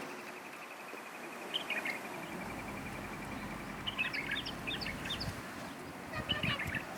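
Small birds singing: a fast, even trill at one pitch that stops about two seconds in, then several short bursts of high chirps.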